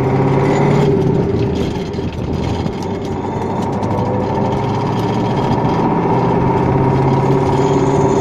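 KamAZ 5511 dump truck's V8 diesel engine running steadily while driving, heard from inside the cab.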